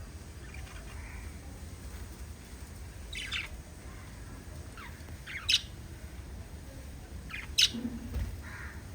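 Small pet parrots giving a few separate short, sharp chirps a couple of seconds apart, over a low steady hum.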